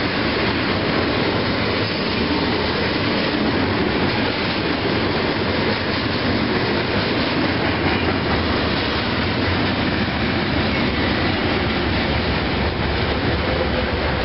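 Covered hopper cars of a CSX freight train rolling past close by, a steady noise of steel wheels on rail.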